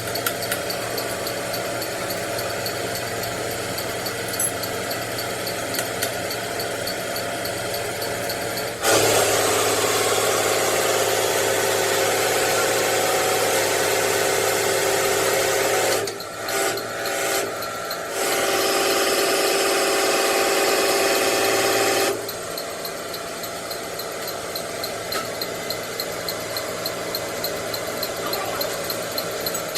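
A machine running steadily with faint regular ticking, joined about nine seconds in by a much louder power tool that runs for about thirteen seconds, briefly dropping out partway, then stops.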